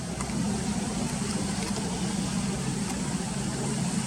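A steady low engine-like hum under an even rushing noise, with a few faint high ticks.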